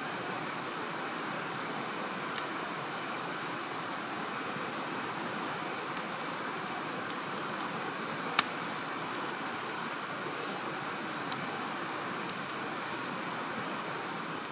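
Wood fire burning: a handful of sharp crackles and pops, the loudest about eight seconds in, over a steady hiss.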